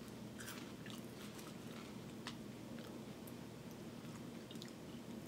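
Two people chewing small sweet strawberry-flavoured crackers, faintly, with a few short crunches scattered through.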